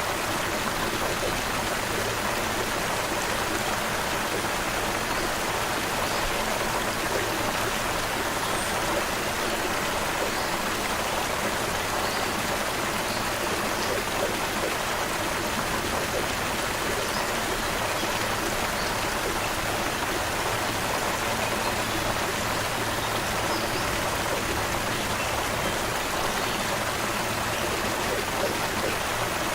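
Creek water running steadily over stones, a constant even rush.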